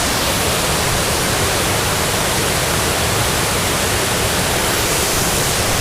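Waterfall rushing steadily: the constant roar of water falling over rock.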